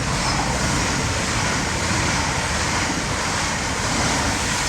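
TfL Rail Class 345 electric multiple unit going past at the platform: a steady rush of wheel and air noise that swells at the start.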